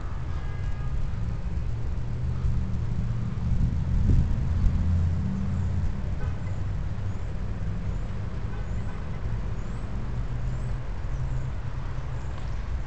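Strong wind buffeting the microphone as an uneven low rumble, with a louder gust about four seconds in.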